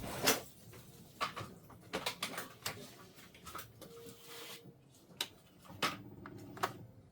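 Epson EcoTank printer's mechanism giving scattered clicks and knocks while it goes through its preparation cycle, with a brief faint hum about four seconds in.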